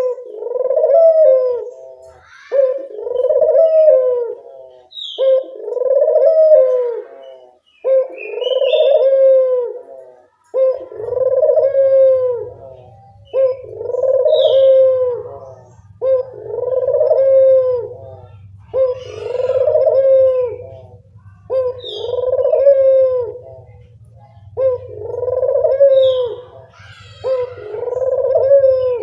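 Puter dove cooing over and over, one arching coo about every two seconds: a lure call meant to set other puter doves cooing. A short high chirp from another bird cuts in several times, and a low steady hum starts about a third of the way through.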